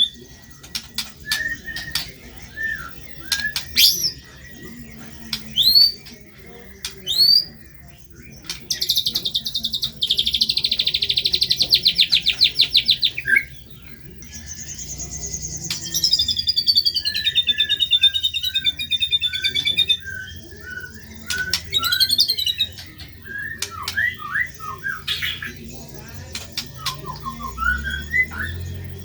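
White-rumped shama singing a varied song of sharp rising whistles and short chips, with a long fast rattling trill about nine seconds in and a falling warbled trill that follows it.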